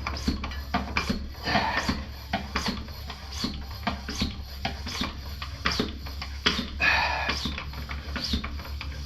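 Irregular clicks, taps and knocks from handling bike parts and tools, with a couple of short scrapes, over a steady low hum.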